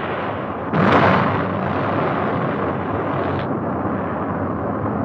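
Atlas rocket booster exploding: a sudden loud blast about a second in over an already rising roar, followed by a continuous rumbling roar.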